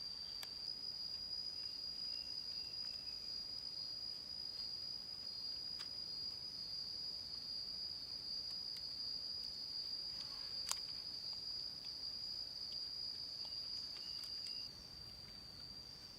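Insects chirring, one steady high-pitched drone that drops a little in loudness near the end. A few faint clicks, with one sharper click about ten and a half seconds in.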